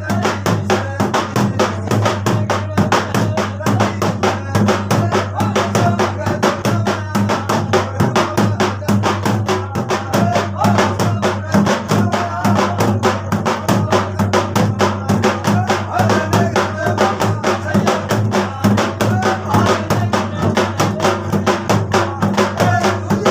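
Rajasthani folk devotional music with a fast, even drum-and-percussion beat over a steady low drone.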